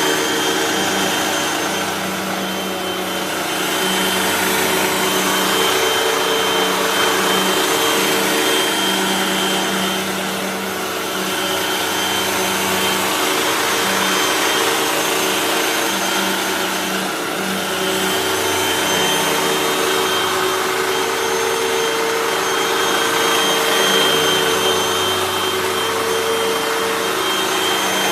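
Hoover WindTunnel 3 Pro Pet upright bagless vacuum cleaner running continuously: a steady rushing of suction air with a motor hum and a thin high whine, its level dipping slightly every several seconds.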